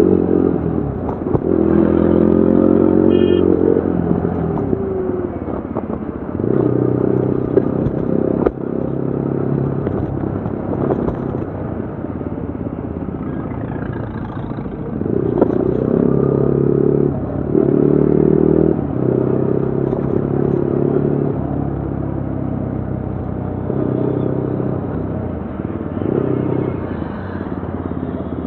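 2025 Yezdi Adventure motorcycle's single-cylinder engine and exhaust while riding, the note swelling and falling back several times as the throttle is opened and eased.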